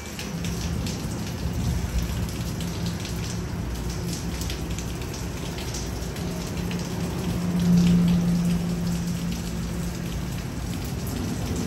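Rain falling and dripping around a station platform, with a steady low hum from a standing NJ Transit double-deck train that swells for a second or so about eight seconds in.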